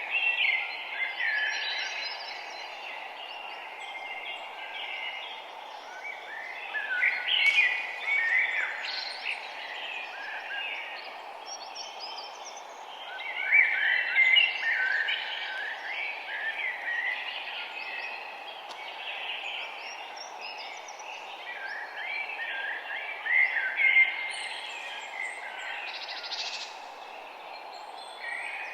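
Several songbirds chirping and singing in quick overlapping phrases, coming in busier bursts every several seconds, over a steady background rush.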